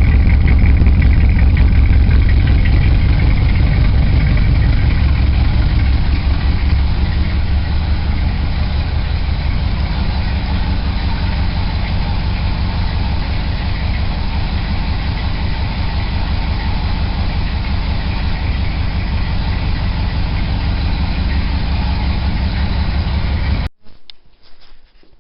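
1972 Chevy truck engine idling steadily with an even low exhaust pulse, called "nice music". It cuts off abruptly near the end.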